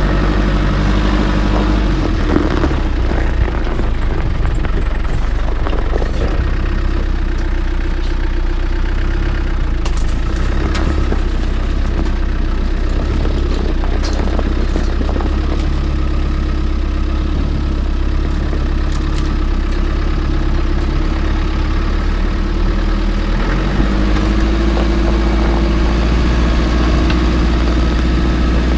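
Land Rover Defender 90's engine running steadily at low speed, its pitch dropping about four seconds in and rising again near the end, with a few light knocks and rattles.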